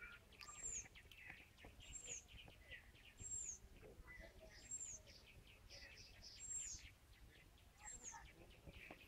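Common myna calling faintly: a run of chattering notes, with a high, falling whistle repeated about once a second.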